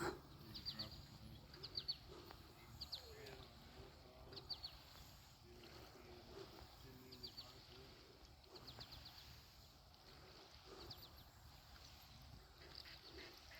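Faint bird chirps: short quick series of high notes repeating every second or two, over a low background murmur.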